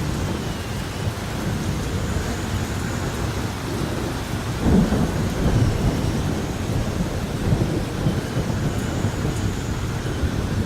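Thunderstorm: steady rain with low rumbling thunder that swells about five seconds in.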